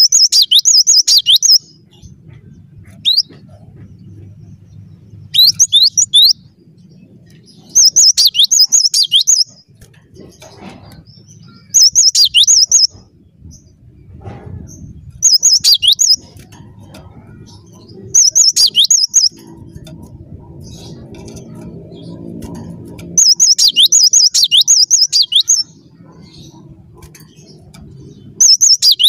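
Cinereous tit (gelatik batu) singing loudly in bursts of fast, repeated high whistled notes that sweep downward. Each phrase lasts a second or two and comes every two to three seconds.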